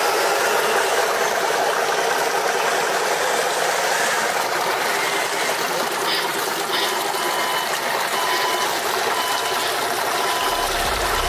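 Radio-controlled truck's motor and gearbox running with a steady, noisy whir. A series of short, high beeps starts about seven seconds in.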